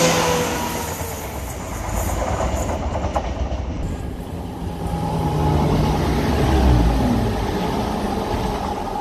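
ScotRail diesel multiple unit passing through the station: underfloor diesel engines running, with wheel and rail noise. The engine note rises about two-thirds of the way in.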